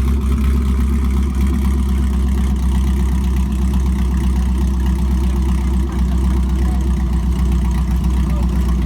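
LS V8 engine swapped into a Porsche 996, idling steadily.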